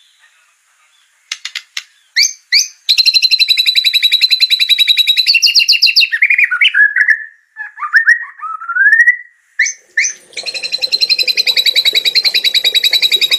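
White-rumped shama (murai batu) singing: a few short sharp notes, then a long, fast, rattling 'trotol' trill. Warbled and rising whistles follow, then a second long rattling trill near the end.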